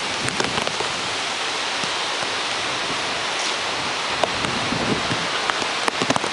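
Heavy storm rain pouring steadily, with scattered sharp drop hits on the plastic bag wrapped around the camera.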